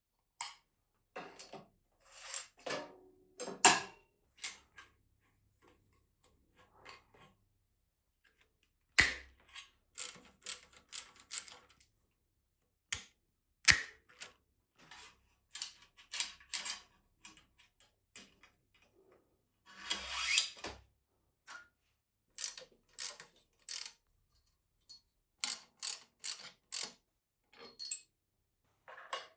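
Irregular mechanical clicks, clinks and rattles of hand work on bicycle parts, with a few sharper knocks and a short scraping burst about twenty seconds in.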